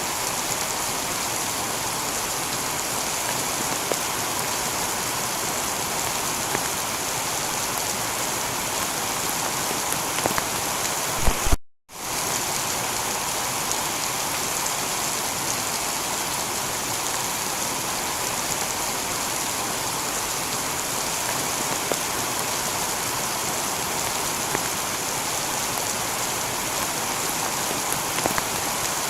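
Heavy rain falling steadily on a tiled roof, with scattered louder drop clicks. The sound cuts out completely for a split second about twelve seconds in, then comes straight back.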